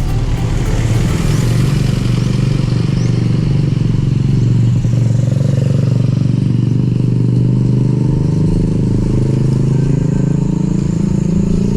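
A motorcycle engine running close by, its pitch rising steadily from about five seconds in to near the end, over a steady low rumble.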